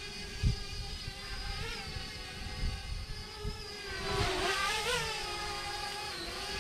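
Parrot Bebop 2 quadcopter's motors and propellers whining in flight, a steady multi-toned hum that briefly rises and dips in pitch near 2 seconds in and again around 4 to 5 seconds in as the drone manoeuvres. Wind rumbles on the microphone underneath, with a strong gust about half a second in.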